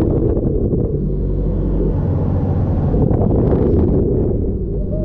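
A sport motorcycle's engine running steadily at low revs, with wind rumbling on the microphone.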